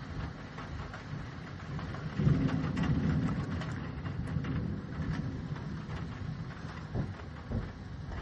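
Thunder rumbling: a low roll that swells about two seconds in and fades slowly over several seconds, with scattered taps of rain throughout.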